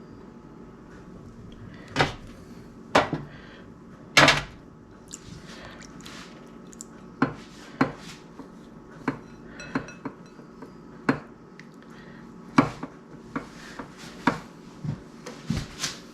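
Hard kitchen utensils and equipment being handled while a sausage stuffer is set up. They give irregular sharp knocks and clinks: three loud ones in the first few seconds, then a scatter of lighter clicks and taps.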